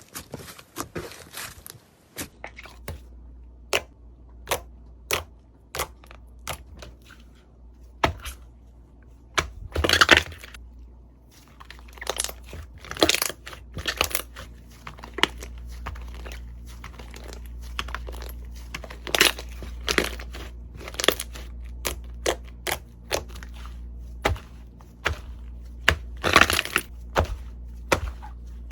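Slime being pressed and squeezed by hand, making a run of irregular sharp crackles and pops, with louder bursts now and then.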